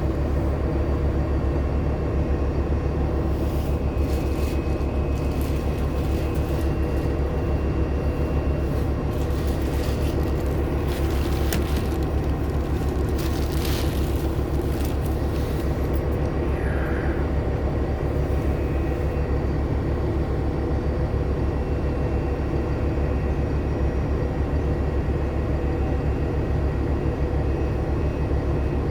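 Steady low drone of a 2014 Nova Bus LFSA HEV hybrid transit bus with a Cummins ISL9 diesel, heard from inside the cabin, with scattered short rattles and clicks between about three and sixteen seconds in. The loud squeal the bus makes at 35 mph does not stand out here.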